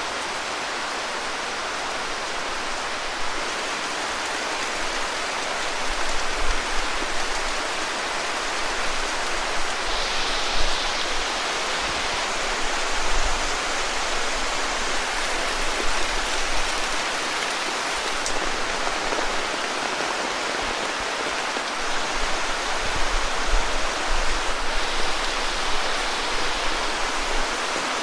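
Heavy monsoon rain pouring steadily, an even hiss, with low rumbling swells coming and going from about six seconds in.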